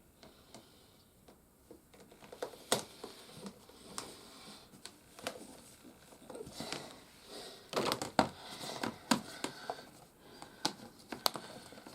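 Hard plastic toy playset parts handled and pressed together: irregular clicks, taps and rustling as plastic tabs are worked into their slots. It starts about two seconds in and is busiest past the middle.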